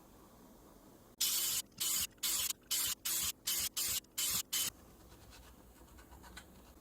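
Paint being sprayed in nine short hissing bursts, one after another over about three and a half seconds, starting about a second in.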